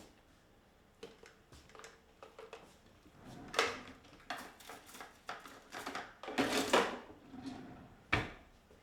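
Handling noises: an irregular run of knocks, clicks and rustles of objects being moved about, growing louder and busier about three and a half seconds in, then cutting off abruptly at the end.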